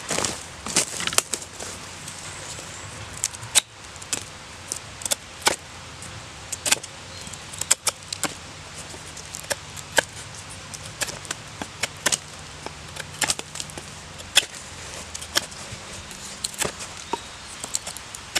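Irregular sharp chopping knocks on wood, roughly one or two a second, as a tool is cut and shaped from wood with a blade.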